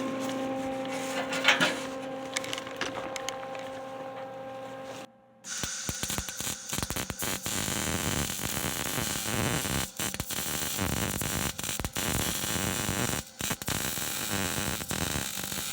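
Steady hum with a single knock, then, after about five seconds, an oxy-acetylene cutting torch hissing loudly as it heats and burns at the rivets holding old truck body metal. The hiss breaks off briefly several times.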